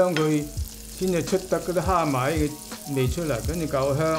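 Minced garlic sizzling in hot oil in a wok as it is stir-fried, with a voice talking over it.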